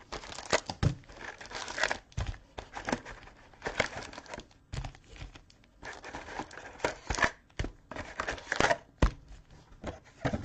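Plastic wrapping on trading-card packaging crinkling and tearing in many short, irregular bursts as a box or pack is opened.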